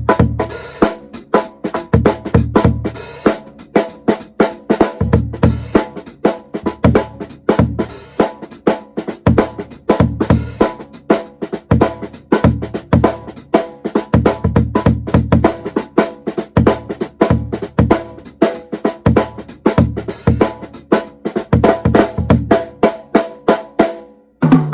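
Drum kit being played in a steady groove, with a 16-inch floor tom converted into a bass drum (hole cut in its head) kicking the low end under snare, hi-hat and cymbal hits. The playing breaks off briefly near the end.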